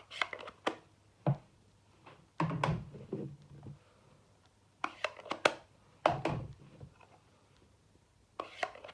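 Blending brushes and plastic ink-pad cases being handled and set down on a tabletop: a string of light knocks and clatters in about six short clusters, with pauses between them.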